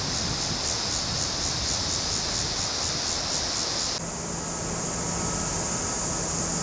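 Rushing floodwater, a steady loud rush of noise, with a high pulsing sound about five times a second over it. About four seconds in the sound changes abruptly to a different rush with a steady low hum under it.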